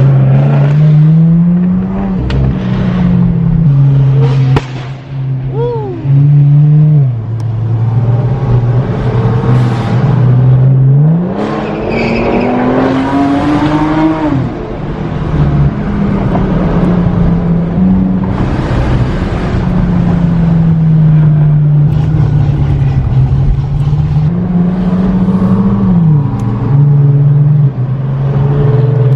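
Car engine accelerating hard, its pitch climbing and then dropping sharply at each gear change, several times over, with other cars' exhausts mixed in.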